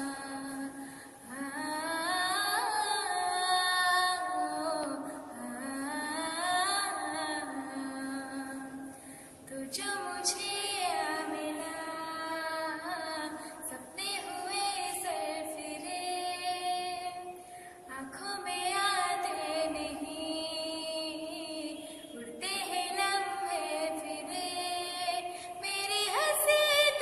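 A girl singing a Hindi film song, her voice gliding and bending through ornamented phrases with short breaks about every four seconds.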